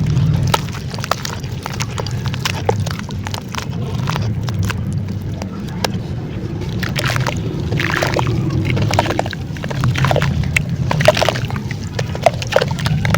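Crunchy dried clay crumbling and breaking apart, with many small, sharp, irregular crackles over a steady low rumble.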